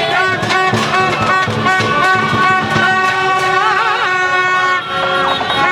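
Celebrating crowd blowing many horns at once, with vehicle horns mixed in and drums or other objects being banged in an irregular beat.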